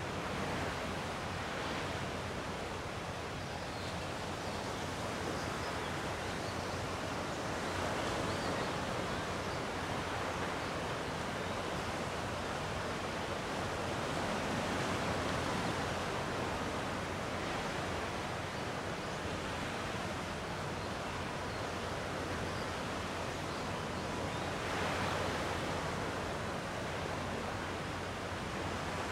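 Gentle sea waves washing on the shore, a steady wash that swells softly every several seconds.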